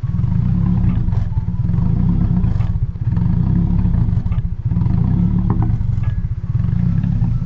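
Nissan KA24DE 2.4-litre inline-four engine idling rough, its low, steady running dipping unevenly every couple of seconds. The owner says it sounds healthy but runs rough and is compression-testing it to find out whether the engine itself is sound.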